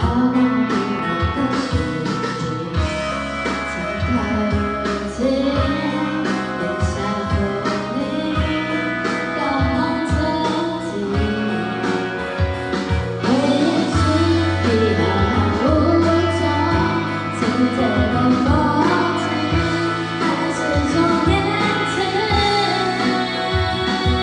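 A woman singing a song with guitar accompaniment, the voice carrying the melody over a steady bass line.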